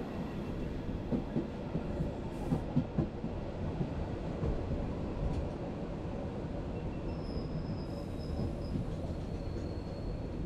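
Lucerne–Engelberg Express train rolling slowly into the station with a steady rumble of wheels on rail. A few clicks come about one to three seconds in, and a faint thin high squeal runs through the second half.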